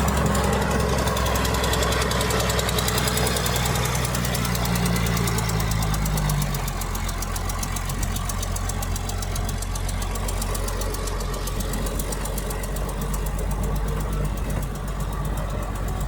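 Heavy diesel engine of earthmoving equipment running. It pulls harder with a slowly rising note for the first six seconds or so, then drops to a lower, steady note.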